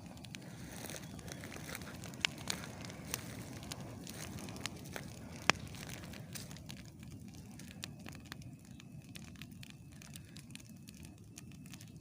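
Campfire crackling, with sharp pops scattered irregularly and one louder snap about five and a half seconds in, over a steady low rushing noise.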